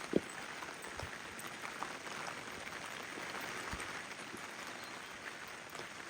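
Steady rain falling, with scattered drips and spatters. A soft low thump comes just after the start and is the loudest sound, with fainter thumps about a second in and past the middle.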